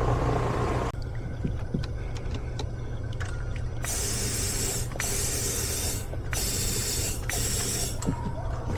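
Four short bursts of pressurised gas hissing through an air-conditioning condensate drain line as it is blown out to clear a clog, over a steady low hum.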